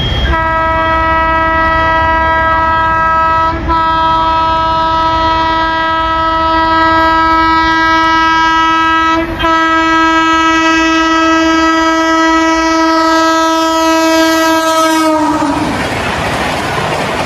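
Indian Railways express locomotive horn sounded long and continuous, broken briefly twice, as the train approaches at high speed; its pitch drops as it stops, and the loud rush of the train passing follows.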